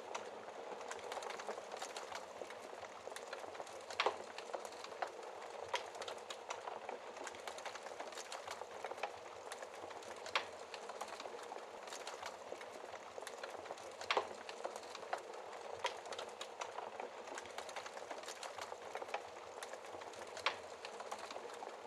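Wood fire crackling in a fireplace: a steady hiss with frequent small snaps and a few louder pops.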